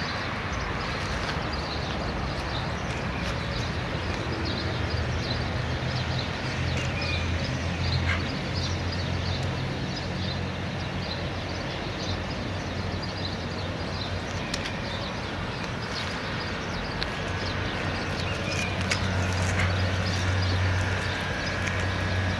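Many small birds chirping continuously, with short high chirps over a steady low rumble.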